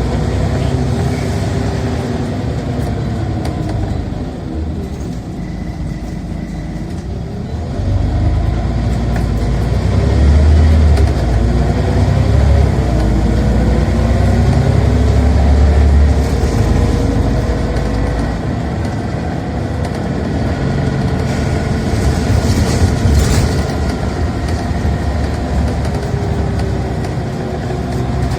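Scania OmniCity single-deck bus running under load, recorded from on board. The engine note climbs and drops back several times as the ZF automatic gearbox shifts, with the heaviest low rumble about a third of the way in as it pulls hard.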